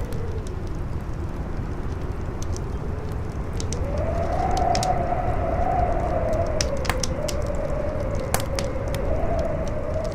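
Campfire crackling with scattered sharp pops, over strong wind howling with a deep rumble. The howl dips early on, then rises about four seconds in and wavers.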